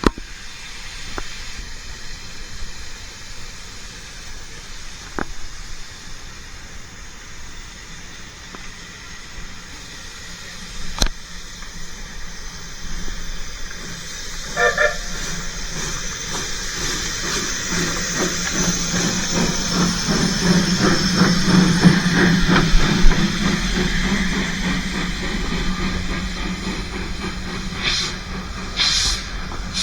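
Narrow-gauge steam locomotive with a steady hiss of steam and a short whistle toot about halfway through. After that the running gets louder with a rapid rhythmic beat, and sharp bursts of steam come near the end.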